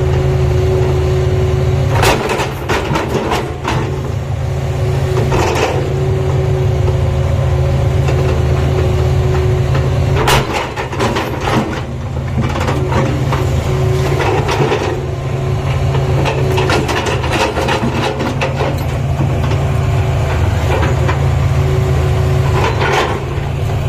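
Tata Hitachi excavator's diesel engine running steadily with a low drone and a steady hum above it, broken every few seconds by short clusters of knocks and clatter.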